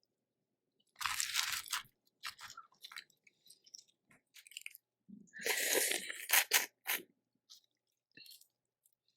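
Close-miked eating of a seafood boil. There are two loud crunching bursts, one about a second in and a longer one around five seconds in, with small clicks and wet smacks between them.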